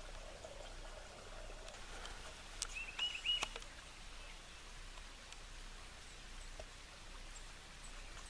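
A bird calling briefly, a quick run of four or five short high notes about three seconds in, over a faint steady outdoor hush. A couple of sharp clicks come just before and during the call.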